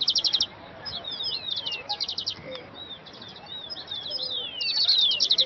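Several songbirds calling over one another: fast trills of rapidly repeated chirps come near the start, about two seconds in and again near the end, with short falling whistles between them.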